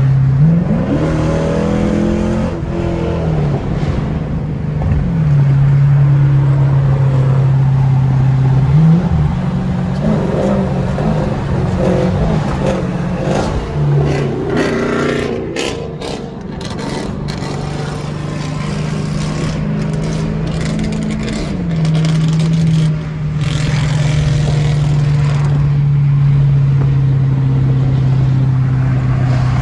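Straight-piped Dodge Charger R/T V8 exhaust droning loud and steady at highway speed, its pitch climbing and falling as the throttle opens near the start and again about ten seconds in.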